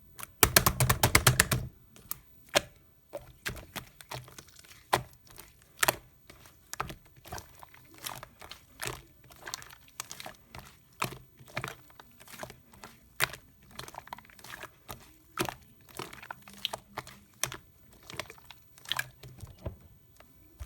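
Slime being pressed and stretched by hand, giving sharp clicks and pops: a loud rapid crackling flurry about half a second in, then single pops roughly every second.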